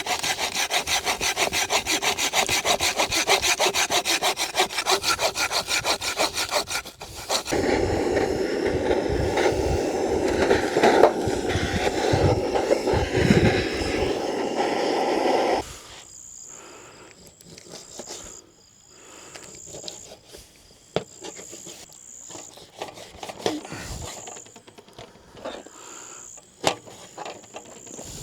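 Hand saw cutting through wood in fast, even strokes, then a louder, rougher stretch of cutting. About fifteen seconds in it stops abruptly, leaving crickets chirping on and off with scattered light clicks and snaps.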